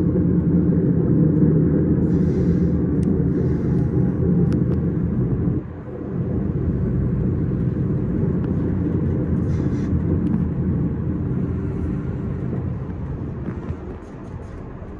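S-Bahn electric train running, with a steady low rumble of wheels and running gear. The level drops suddenly about six seconds in and fades gradually near the end.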